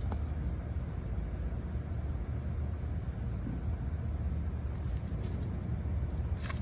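Steady, high-pitched chorus of insects, such as crickets, continuing without a break over a low, steady rumble.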